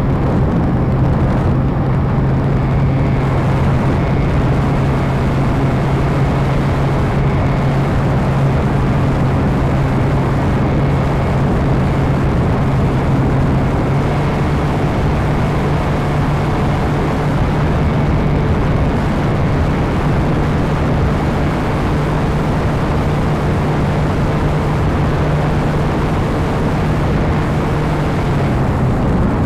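Radio-controlled model airplane in flight: its motor and propeller run at a steady pitch under a heavy rush of wind noise. The pitch steps up slightly about halfway through and falls away near the end.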